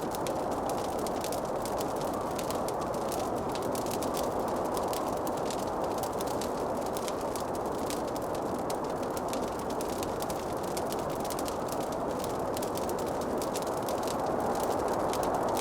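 Wood fire in a fireplace crackling, with many quick small pops over a steady rushing noise.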